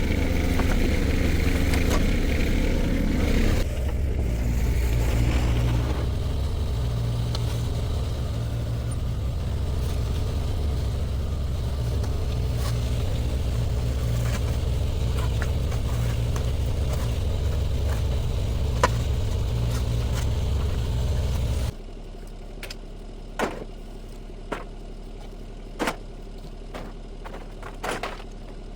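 Shantui STE35SR mini excavator's diesel engine running steadily, working harder for the first few seconds, with scattered clicks and scrapes over it. About two-thirds of the way in the engine sound cuts off abruptly, leaving a quieter background with a few sharp knocks.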